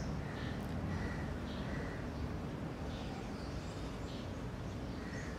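Small birds chirping outside, short faint calls repeating every second or so over a steady background hiss.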